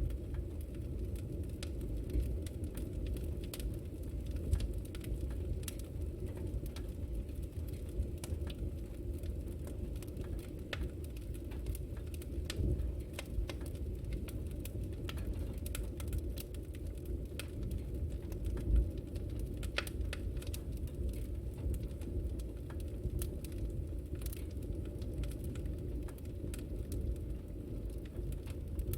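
Wood fire crackling in a fireplace: a steady low rumble of the flames with frequent small, sharp pops and crackles scattered throughout.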